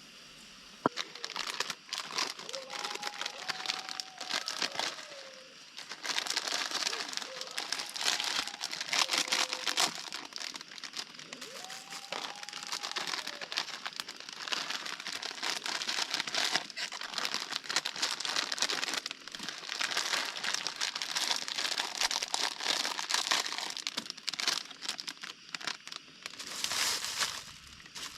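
Crinkling and rustling, made up of many small crackles, in irregular stretches with short pauses.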